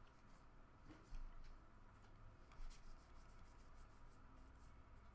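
Faint rustling and sliding of trading cards being handled and flipped through by hand, with a few soft taps, the clearest about a second in and again near three seconds.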